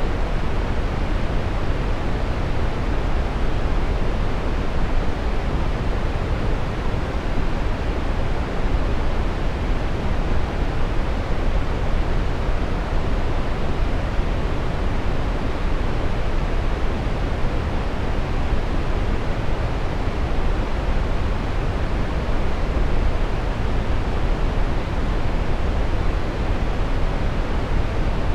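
Steady brown noise: an even, unchanging rushing hiss weighted to the low end, with no tones or events.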